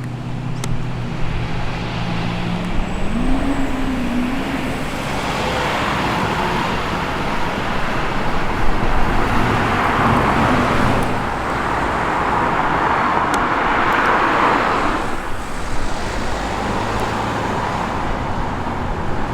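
Ford Falcon XY GT's engine as it rolls in slowly, its pitch rising briefly about three seconds in. Then more cars drive past, with their engine and road noise swelling about ten and again about fourteen seconds in.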